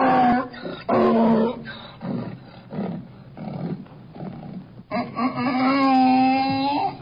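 Donkey braying: loud drawn-out calls with rasping, breathy intakes between them, ending on one long call.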